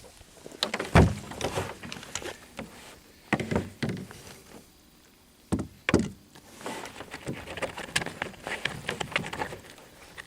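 Handling noises: a heavy thump about a second in, two more clusters of knocks a few seconds apart, then a busier run of light clicks and rustling.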